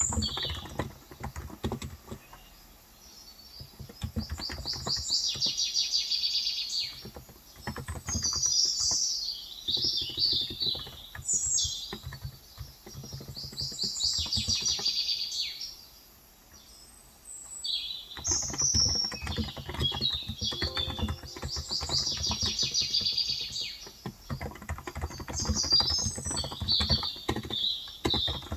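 Birds singing in repeated high trilled phrases over steady typing on a Cox Endeavor electrostatic capacitive (Topre-style) tenkeyless keyboard with light 35 g keys. The typing pauses briefly twice, about two seconds in and again about sixteen seconds in.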